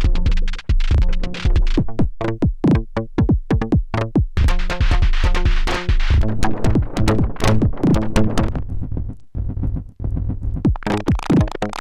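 Erica Synths Perkons HD-01 drum synthesizer playing a looping electronic drum pattern of quick, evenly spaced hits over low pitched tones. Its sound changes abruptly about halfway through and again near the end as different saved kits are called up.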